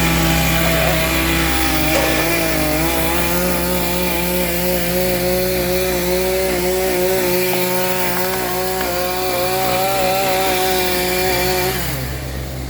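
Chainsaw running at high revs, its pitch wavering, over the steady low drone of a Dingo compact utility loader's engine. The chainsaw stops about a second before the end, leaving the loader running.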